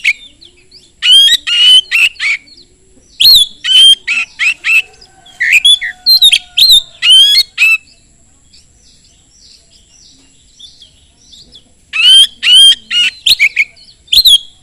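Oriental magpie-robin (kacer) singing loudly in fast bouts of rapid, sharply gliding whistled notes. There are two bouts with a pause of about four seconds between them, in which fainter chirps from other birds continue.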